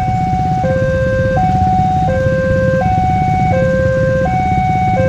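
Railway level-crossing warning alarm sounding as a train approaches: two electronic tones alternating low-high, each held about 0.7 s, over a steady low rumble of engines.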